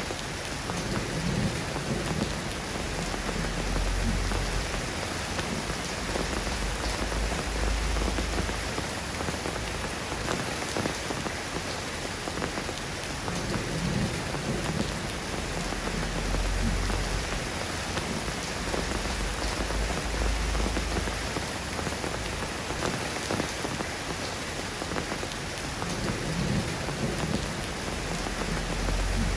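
Soft rain falling steadily, with low rumbles of thunder swelling up and fading several times.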